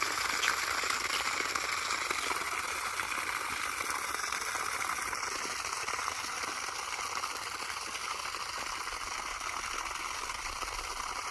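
Steady rush of flowing water, an even hiss without any pitch, fading slightly toward the end.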